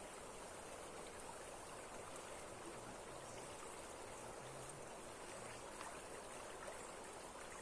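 Waterfall water rushing in a steady, even stream.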